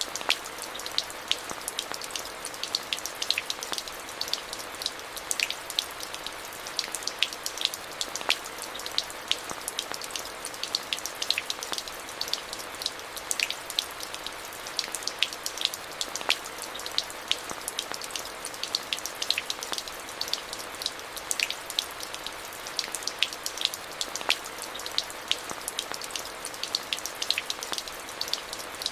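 Steady rain: an even hiss with many distinct drops ticking sharply, close by.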